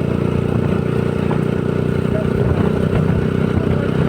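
Honda CBR150R's single-cylinder four-stroke engine running steadily while the motorcycle is being ridden.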